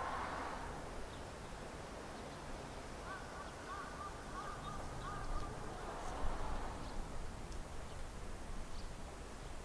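Quiet outdoor ambience with a faint steady hiss; about three seconds in, a bird gives a quick run of short repeated calls lasting under two seconds.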